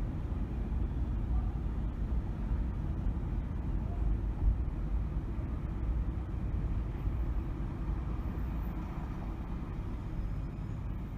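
Car driving on city streets: a steady low rumble of engine and tyre noise.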